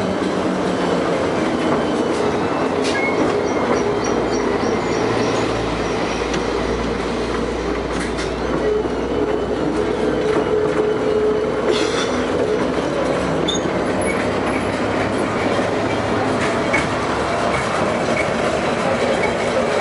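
LM-68M tram running along the track: a steady rumble of wheels and running gear with a steady hum, and occasional sharp clicks from rail joints.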